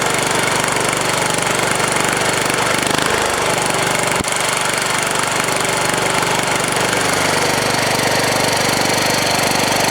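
Small pull-start diesel engine of a 1967 Wheel Horse 1067 garden tractor running steadily with a rapid clatter, just after a cold start and still cold. A single sharp click a little over four seconds in.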